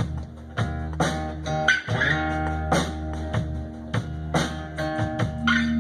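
Live blues band playing: guitar notes over a steady beat of drum hits.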